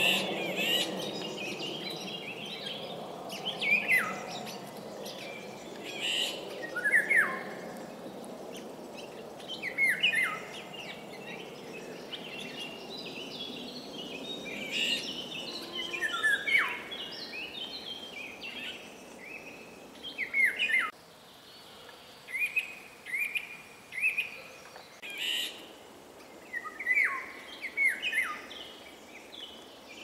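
Songbirds singing and calling: many short, sharp notes, several sweeping steeply down in pitch, scattered and overlapping. A low steady rush sits beneath them and drops away about two-thirds of the way through.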